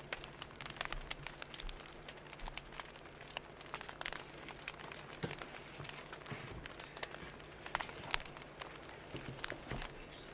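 Wood fire crackling: irregular sharp pops and snaps of varying loudness over a soft hiss, with a faint low hum underneath.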